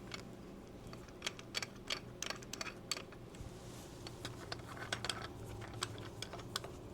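Irregular light clicks and taps as a pistol slide and rear sight are handled and set into a sight pusher tool.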